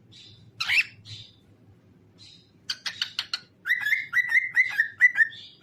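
Pet cockatiel singing: a few soft chirps, a loud sweeping call under a second in, a quick run of clicky notes around three seconds in, then about six quick repeated whistled notes near the end.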